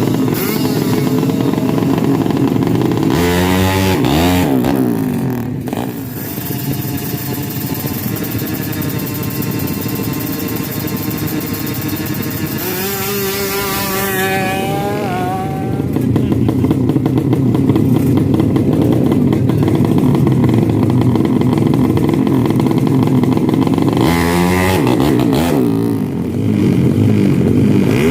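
Racing motorcycle engines running loudly, their pitch sweeping up and down three times: at about a sixth of the way in, about halfway, and near the end.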